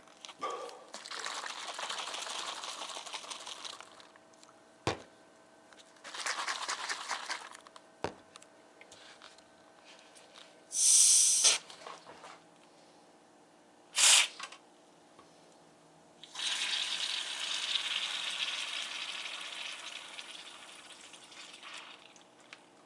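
Shaken carbonated soda being handled over a sink: some handling noise and a couple of knocks, then two short, sharp hisses as the pressure in the shaken drink is let out, then a long fizzing that slowly fades.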